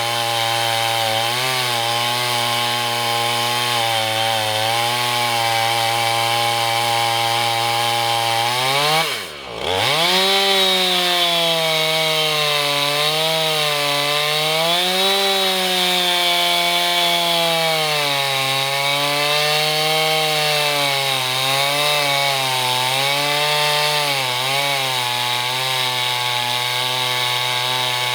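Husqvarna 445 two-stroke chainsaw running under load as it rips an oak log lengthwise in a Granberg Alaskan chainsaw mill. About nine seconds in, the engine speed drops sharply for a moment and then climbs straight back. After that the pitch wavers up and down as the load in the cut changes.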